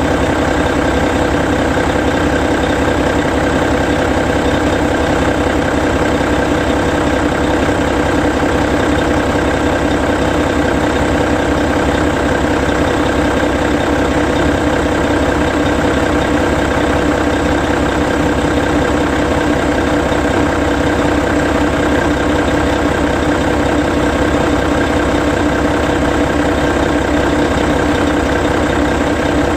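Hino E13C 12.9-litre inline-six diesel of a Hino Selega tour bus idling steadily.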